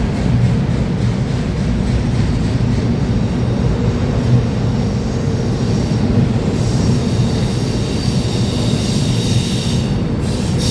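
Freight train cars rolling past with a steady, loud rumble. A high-pitched wheel squeal comes in about two-thirds of the way through.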